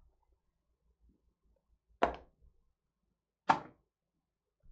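Two sharp knocks about a second and a half apart, from a trading card pack being handled as it is opened.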